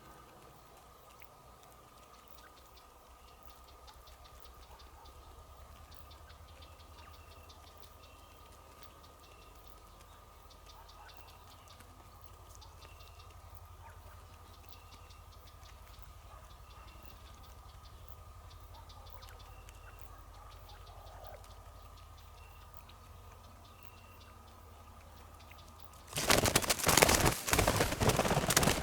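Faint short high chirps repeating about once a second over a steady hum, then a sudden loud burst of rustling near the end.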